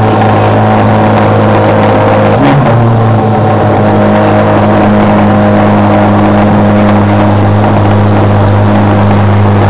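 Chevrolet Corvette Z06's 5.5-litre flat-plane-crank V8 running loud and steady at a raised, held engine speed, with a brief change in pitch about two and a half seconds in.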